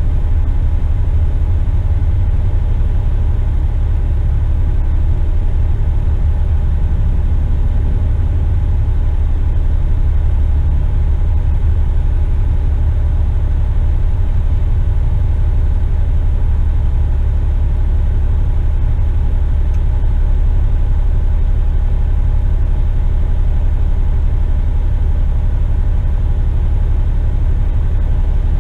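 Western Star tipper truck's diesel engine running steadily, a deep, even rumble that holds without change.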